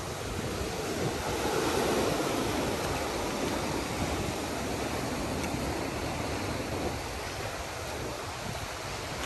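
Ocean surf washing against the shore, a steady rushing that swells in the first few seconds and eases slightly toward the end, with some wind on the microphone.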